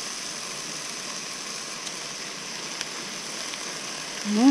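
Chopped fish frying in a nonstick wok: a steady, even sizzle, with a couple of faint clicks from the wooden spatula.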